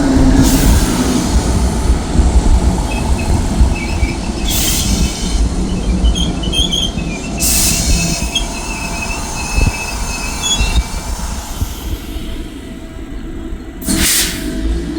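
Passenger train moving through the station with a steady low rumble and intermittent high wheel squeal, broken by four short hissing bursts.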